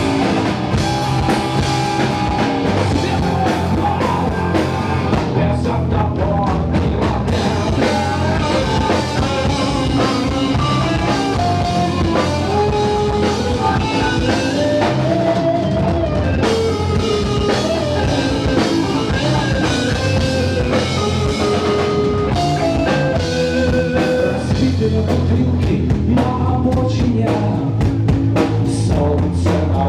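A rock band playing live: drum kit and bass under a shifting melodic line.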